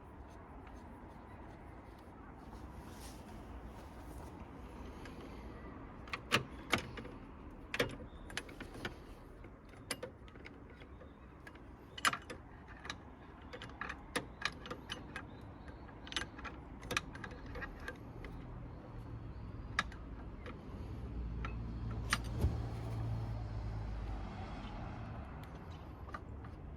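Scattered sharp metal clicks and clanks of tools and fittings being handled while a car battery is changed. A low rumble comes in near the end.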